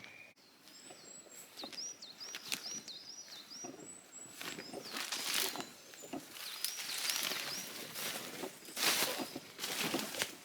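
A small songbird singing runs of quick, high repeated notes, several a second, over footsteps rustling on the woodland floor that grow louder near the end.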